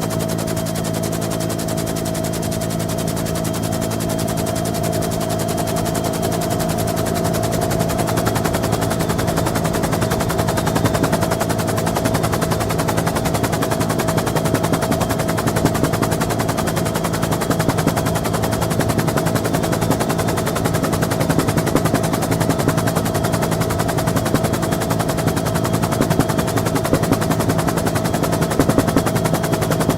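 On board a Bell UH-1N Twin Huey helicopter: rapid, rhythmic main-rotor blade chop over the steady drone and whine of its twin turboshaft engines, growing a little louder after about eight seconds.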